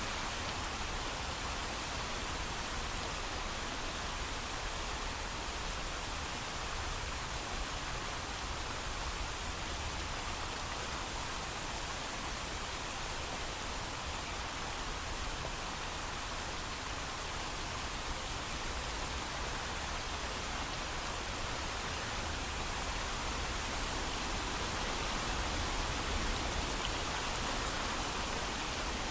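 Steady heavy rain with no thunder: an even hiss of falling rain.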